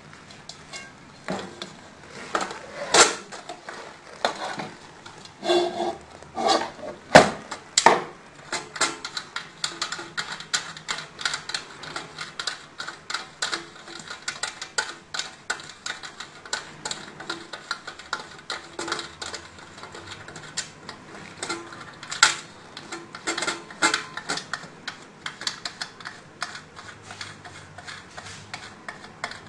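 Irregular clicking, tapping and clinking of hand tools, screws and parts against a chocolate fountain's housing as it is taken apart to change the circuit board, with a few sharper knocks about 3 and 7 seconds in.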